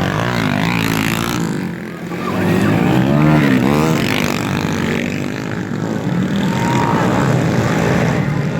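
Motocross bikes' engines running and revving, several at once, their pitch rising and falling, with a brief dip in loudness about two seconds in.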